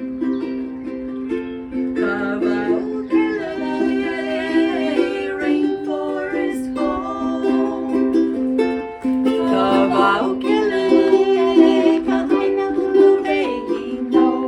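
Ukulele strummed in a steady rhythm, an instrumental passage between sung verses of a song.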